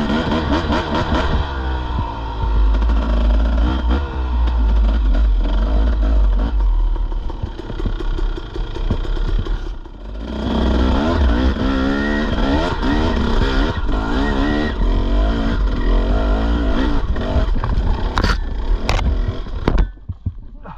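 Dirt bike engine revving up and down under load while riding a trail, with the clatter of the bike over rough ground. The engine eases off briefly about halfway through, then revs again. A few sharp knocks come near the end, and then the engine sound drops away suddenly.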